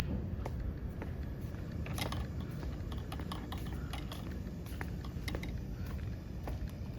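Irregular light clicks and taps, a few each second, over a steady low rumble.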